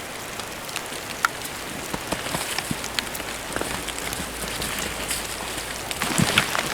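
Wet snow and rain falling, a steady hiss with scattered sharp ticks of drops striking, and a louder rustling stretch near the end.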